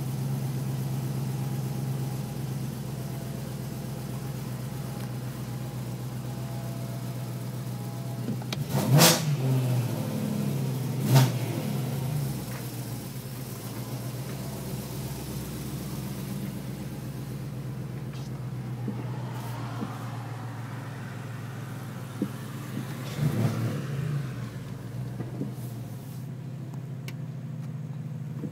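2008 BMW E92 M3's S65 V8 through an exhaust with high-flow cats, an X-pipe with the secondary cats deleted, resonators and the stock muffler, heard from inside the car: a steady idle broken by two short, sharp rev blips a couple of seconds apart about a third of the way through, and a smaller cluster of blips later. The revs are kept short because the engine is not yet warmed up.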